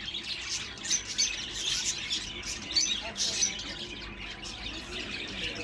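Birds chirping, many short high calls overlapping in a steady busy chatter.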